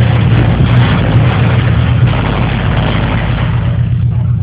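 460 big-block V8 running through a 3-inch exhaust, a loud, steady low rumble that shakes the car's window glass.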